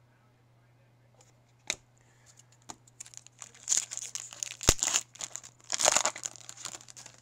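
A foil trading-card pack being torn open and crinkled, in two bursts around three and a half and six seconds in, with a few sharp clicks between them.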